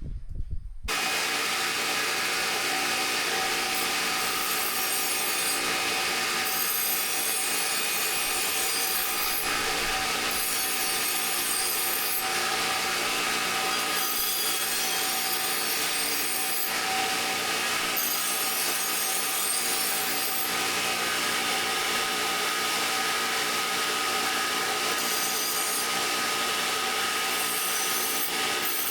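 A power tool starts about a second in and runs steadily, with a rough grinding hiss that swells and fades every second or two as the work is pressed against it.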